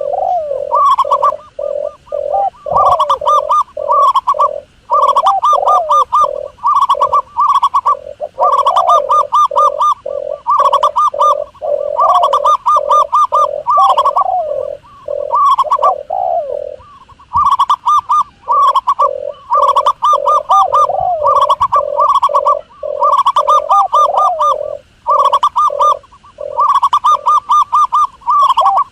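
Doves cooing in quick runs of short, evenly repeated notes. The phrases last a second or two, with brief gaps between them and one longer pause a little past the middle. This is a recording of dove calls of the kind played as a hunting lure.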